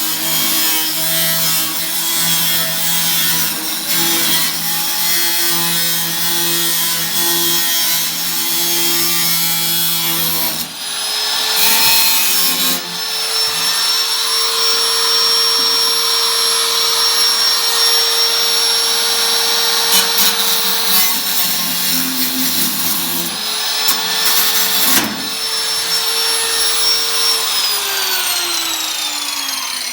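Electric power tool running under load on the thin sheet steel of an 18-litre can. Its motor pitch shifts about ten seconds in, and it winds down with a falling whine near the end.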